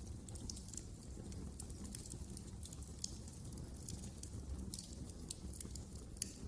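Fire in a fireplace crackling: irregular sharp snaps and pops, several a second, over a steady low rumble of the flames.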